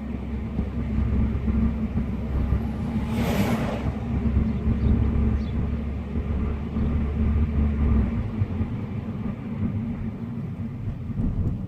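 Honda car's engine running with a steady low drone, with a brief rushing noise about three seconds in. The deepest part of the drone drops away at about eight seconds.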